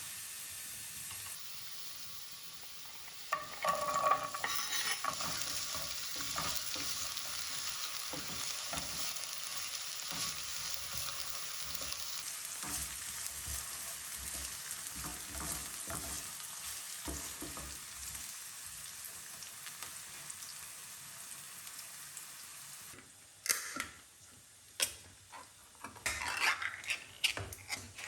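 Food sizzling steadily in a frying pan, with a utensil clinking against the pan as it starts. Near the end the sizzle drops away and a run of separate clicks and knocks follows.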